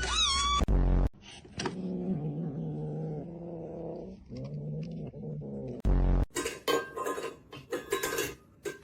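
A domestic cat calls with a short rising and falling meow, then a long, low, wavering yowl. Loud thumps come about a second in and again around six seconds, followed by a quick run of sharp clattering knocks near the end.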